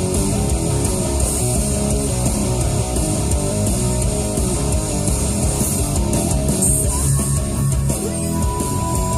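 Heavy metal song with distorted electric guitars playing on a car stereo.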